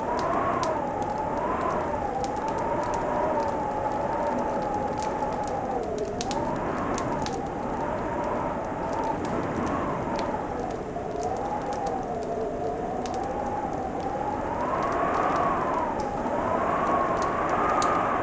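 Wood fire crackling with scattered sharp pops, over a wind-like whistle that rises and falls in pitch.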